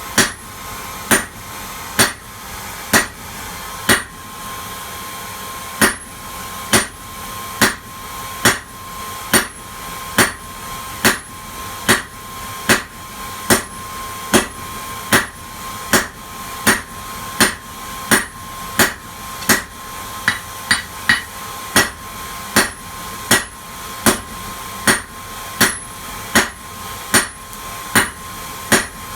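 Blacksmith's hammer striking metal on an anvil in a steady forging rhythm, about one blow a second, with a short pause early on and a quick flurry of lighter taps about two thirds of the way through. A clear ringing tone hangs on between the blows.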